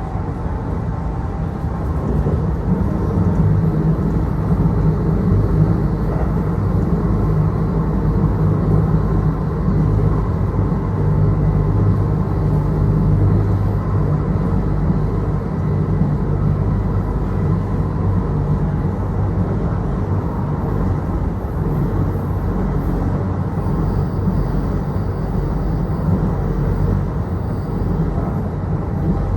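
Kintetsu Osaka Line local train heard from inside the car while running between stations: a steady low rumble of wheels and running gear on the rails, with a low hum.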